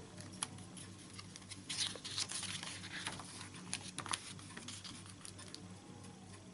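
Faint crackles and pops of an open fire, scattered through, with a brief soft rustle about two seconds in.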